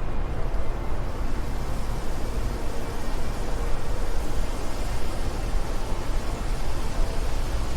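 Steady wind noise: a continuous rushing hiss with a heavy low rumble and no breaks.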